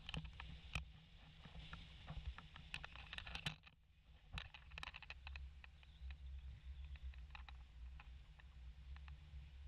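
Faint boat ride: a steady low rumble from the boat, with many scattered sharp clicks and knocks, and a brief lull about four seconds in.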